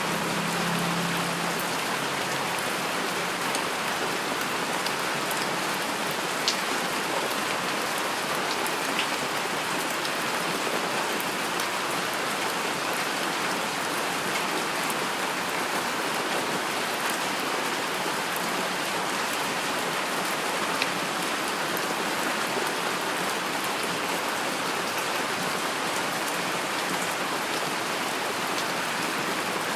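Steady heavy rain falling, a dense even hiss of drops, with a few sharper single drop ticks now and then.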